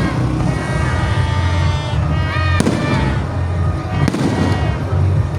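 Fireworks going off, with sharp bangs about two and a half and four seconds in.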